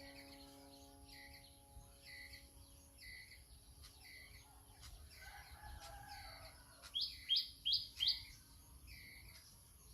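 Bird calls: a short high chirp repeated about every three-quarters of a second, with four louder calls in quick succession near the end.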